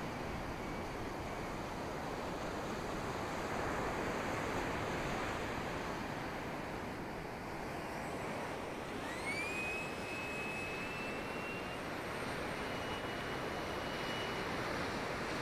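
Electric ducted fan of a 90mm EDF model jet whining over a steady rush of wind noise; about nine seconds in the whine rises quickly in pitch and then holds high, edging up again a few seconds later as the throttle is advanced.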